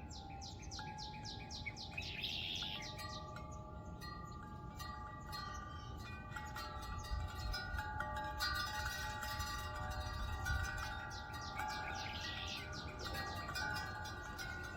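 Wind chimes ringing in a breeze, their notes overlapping and sustaining. A bird gives a rapid trill at the start and again near the end, and wind rumbles low on the microphone.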